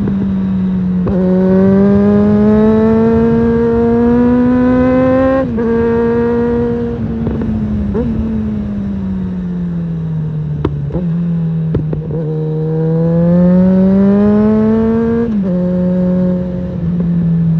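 Suzuki GSF650 Bandit's inline-four engine through an aftermarket Storm exhaust, pulling under throttle. Its pitch climbs and drops at a gear change about five seconds in, falls away as the bike slows, then climbs again and drops at another shift near the end.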